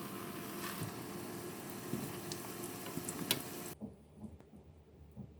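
Belyashi frying in hot vegetable oil in a frying pan: a dense sizzle with scattered crackles. It cuts off abruptly about two-thirds of the way through, and a few faint soft knocks follow.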